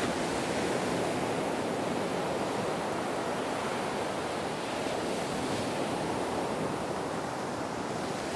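Ocean waves: a steady wash of surf with gentle swells and no single breaking crash standing out.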